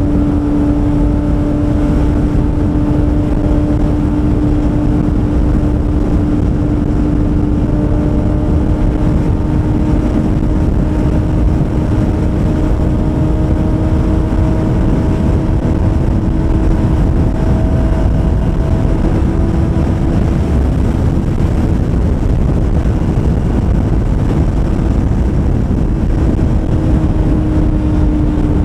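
Kawasaki ZX-25R's 250 cc inline-four through an SP Tadao aftermarket exhaust, held at a high, steady engine speed while cruising fast. The pitch creeps slowly up and eases back down near the end, over a constant rush of wind noise.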